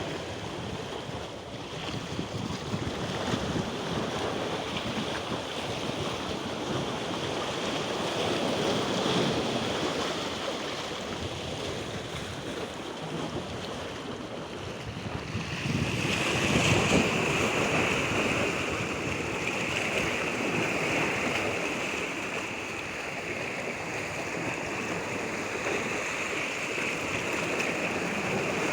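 Moving water rushing steadily, swelling and easing every several seconds, with a steady high hiss over it; the sound shifts and grows a little louder a little over halfway through.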